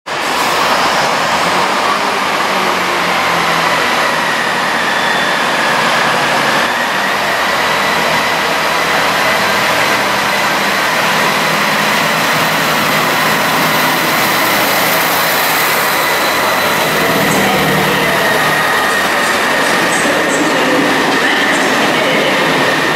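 A Class 158 diesel multiple unit running slowly along the platform under a station roof, a loud steady rumble with a high whine held throughout.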